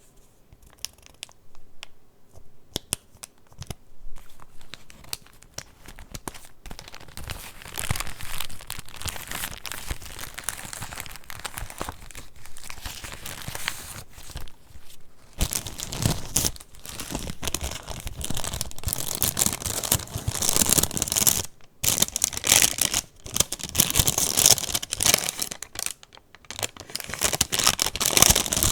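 Paper pages of a handmade junk journal being handled and turned, rustling and crinkling with many small taps and clicks. It starts faint and grows busier and louder in the second half.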